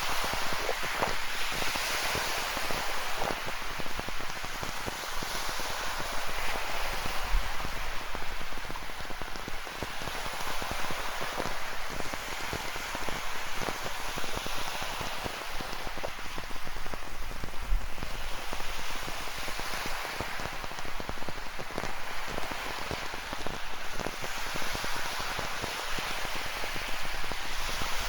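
Steady rain with many separate drops hitting close by, over the wash of ocean surf that swells and fades every several seconds.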